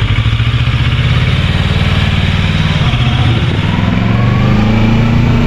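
Kawasaki Versys 650's parallel-twin engine running at low revs just after being started, its pitch rising a little past the halfway point as the revs climb.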